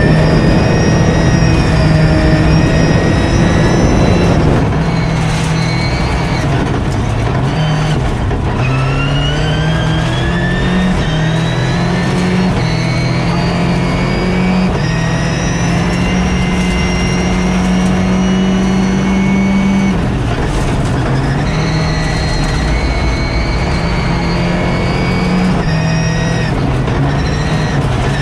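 Vehicle engine driven hard at speed, its pitch stepping up and down with the revs, rising under acceleration about a third of the way in, held steady for several seconds and dropping off about two-thirds of the way through.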